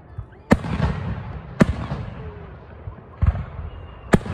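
Aerial firework shells bursting overhead: four sharp bangs, each trailing off in a low rumble.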